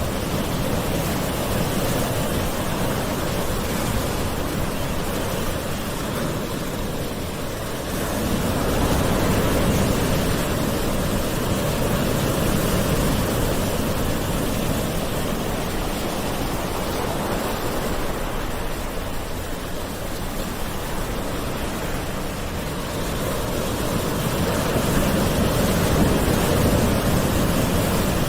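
Gentle ocean waves washing in a continuous surf, swelling louder about eight seconds in and again near the end.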